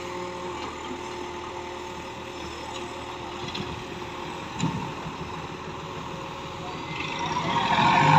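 Heavy diesel engine of earth-moving machinery running steadily, with a single knock about four and a half seconds in; the engine grows louder near the end.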